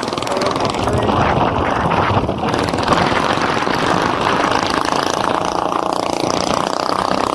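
Loud, steady vehicle noise: a running engine under a continuous rushing haze.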